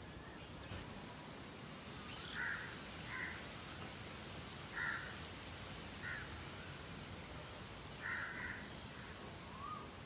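Bird calls: about five short, harsh calls at uneven intervals, the last one longer, over a steady background hiss, with a faint rising whistle near the end.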